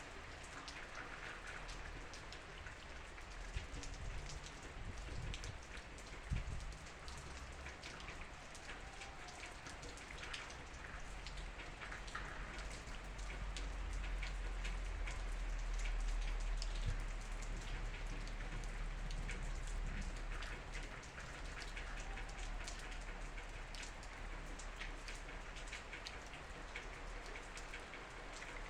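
Heavy rain falling, a steady hiss dotted with many small drop impacts. A low rumble swells through the middle and then fades.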